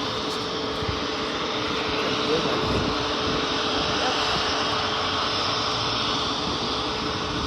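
Airliner engines running steadily, a constant whine over a broad rush of engine noise.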